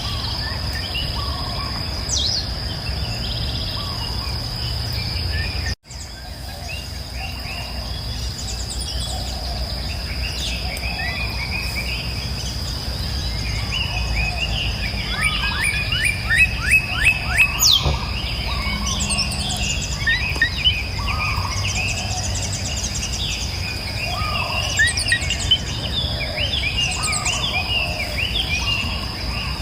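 Several songbirds singing and calling, with a fast trill of rapidly repeated notes about halfway through, over a steady low rushing background and a continuous high-pitched steady tone like insects. The sound cuts out for a moment about six seconds in.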